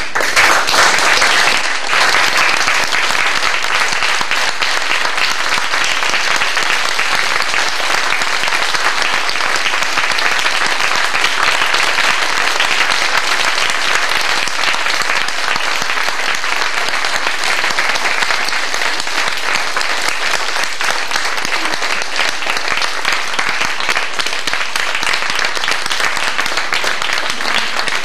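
Audience applause, many hands clapping at once, that starts suddenly and carries on steadily.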